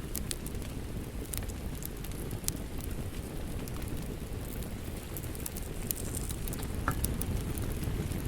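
Wood fire burning in a fireplace: a steady low rumble of flames with irregular sharp pops and crackles scattered throughout.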